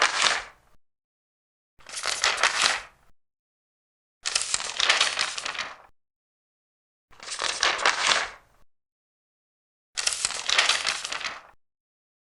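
Large paper pages being turned one after another, each turn a crackly rustle of about a second and a half. One turn is ending at the start, then four more follow at roughly two-and-a-half to three-second intervals, with silence between them.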